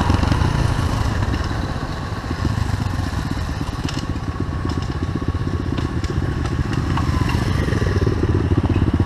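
SSR 125cc pit bike's single-cylinder four-stroke engine running steadily at low revs, with a few light clicks partway through.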